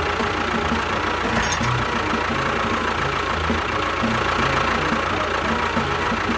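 A small motor running steadily with a continuous mechanical hum: a homemade mini tractor machine at work.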